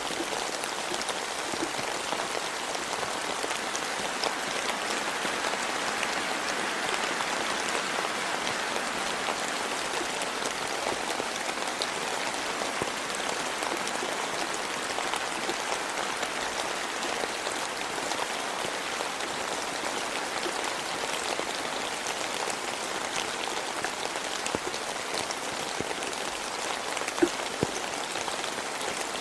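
Steady rain falling: an even, dense hiss of many drops with scattered individual drips ticking, a few sharper ones near the end.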